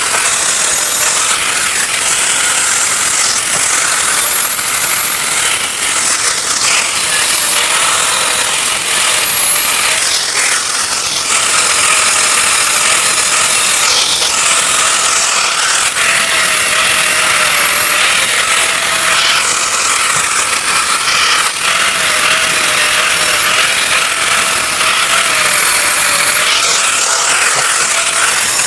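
Electric grinder grinding the welded steel blade of a hydraulic splitting axe, rounding off sharp edges and smoothing weld beads: a continuous loud grinding with a high motor whine that wavers in pitch as the disc bears on the steel.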